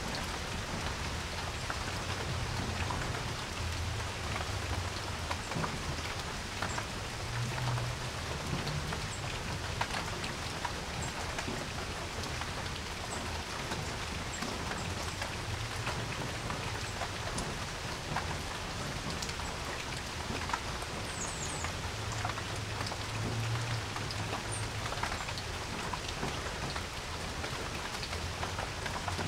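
Steady rain falling on a porch, with a dense patter of individual drops ticking on hard surfaces. Under it, a low rumble swells and fades several times.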